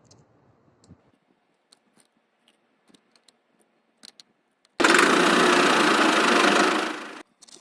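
A small motor whirs loudly for about two and a half seconds, starting suddenly and dying away, after several seconds of faint handling clicks.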